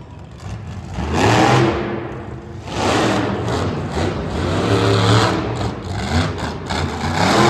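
Monster truck engine revving hard in surges: a short burst about a second in, a longer one from about three to five and a half seconds, and another building near the end.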